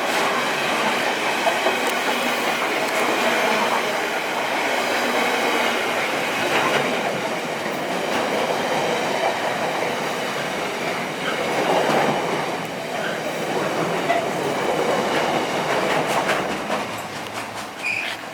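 A train running past on the track: steady wheel-on-rail noise with sharp clicks from the wheels over the rail joints, starting to fade away near the end.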